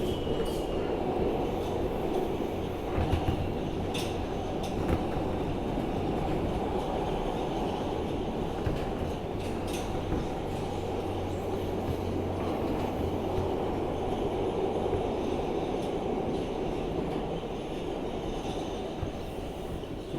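Interior of an R160B Alstom subway car running at speed: a steady rumble of wheels on rail with a low hum and a few sharp clicks over rail joints.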